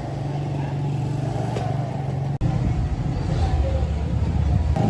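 A motor running with a steady low hum. About halfway through there is a sharp momentary dropout, after which the hum is lower and louder.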